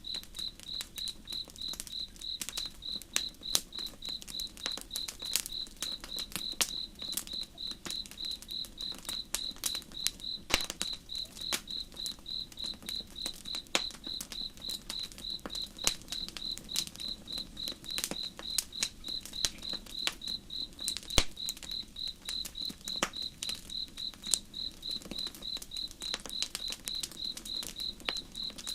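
Campfire crackling with irregular sharp pops, under a cricket chirping in an even, high-pitched pulse of about three chirps a second, over a soft low wash of flowing river.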